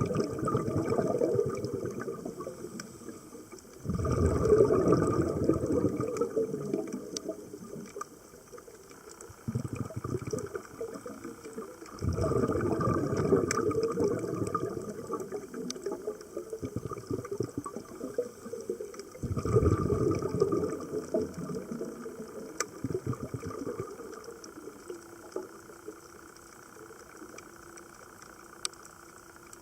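Scuba diver's exhaled bubbles bursting out of the regulator underwater, a loud bubbling rush about every seven to eight seconds that tails off between breaths. Faint sharp clicks are scattered throughout.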